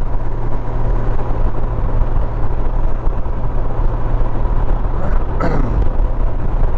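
Steady wind and road noise with a low engine rumble from a Honda Gold Wing motorcycle cruising at highway speed. A brief falling sound comes about five and a half seconds in.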